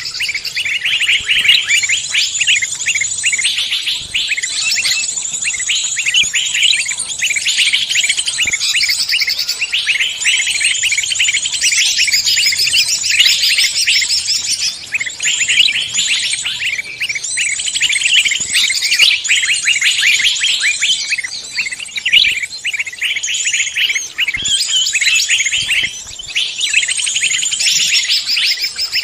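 A dense chorus of many songbirds chirping and trilling at once, overlapping without a break: a mixed forest-bird recording of the kind played to lure wild birds.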